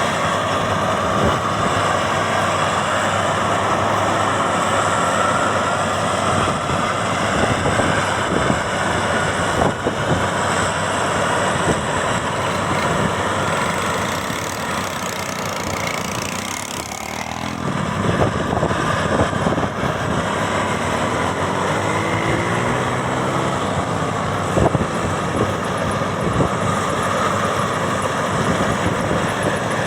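Maxxi Bimo 102 X Top combine harvester's engine and machinery running steadily. The sound dips briefly just past halfway, then picks up again with a faint rising whine.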